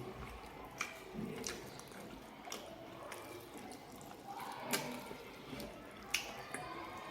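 Wet mouth sounds of a person eating: chewing and lip smacks, with a handful of sharp clicks spread through.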